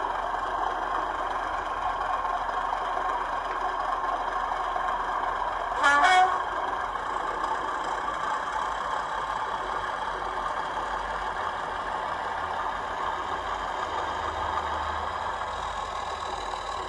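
Hornby Class 31 model diesel locomotive's DCC sound decoder playing a steady diesel engine sound through its small onboard speaker, with one short horn blast about six seconds in.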